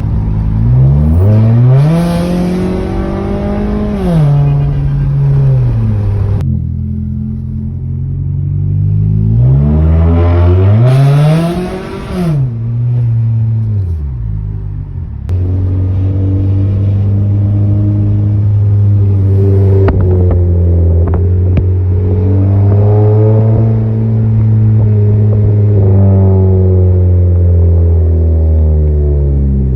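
A 2010 Ford Fusion's 2.5-litre four-cylinder engine running through an exhaust with the resonator and muffler deleted, out to 3.5-inch quad tips. The engine note climbs twice, hanging high for a couple of seconds each time before dropping back, then holds a steady, lower drone through the second half.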